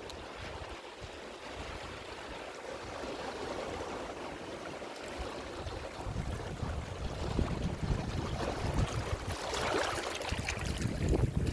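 Ocean surf washing in, a steady rush of water that swells and builds to a louder wave breaking about ten seconds in.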